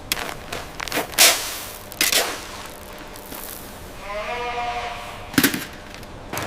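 A goat bleats once, about four seconds in, amid several sharp knocks and clatters. The loudest knock comes about a second in, and another sharp one follows just after the bleat.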